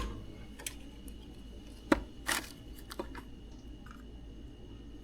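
Small metal hand tools clicking and tapping against a circuit board during capacitor desoldering: a handful of sharp clicks with a short scrape a little past two seconds in, over a steady low hum.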